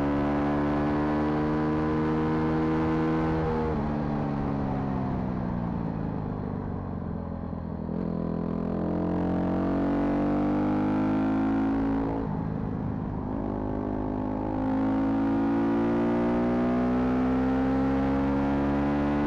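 A car's engine running while driving, its pitch dropping as it slows about four seconds in, then climbing again, easing off briefly around twelve seconds in, and climbing once more.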